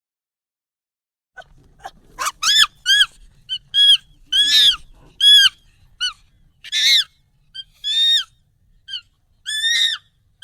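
Monkey calls sped up and pitched up: after about a second and a half of silence, a fast run of short, high calls, each rising then falling in pitch, roughly two a second.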